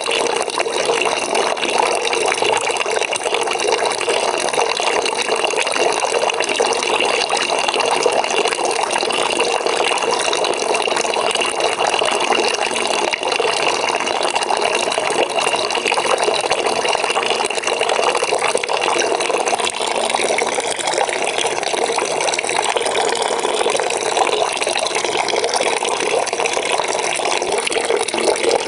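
Water from a tap running steadily into a bucket, an even splashing fill with a faint steady higher tone above it.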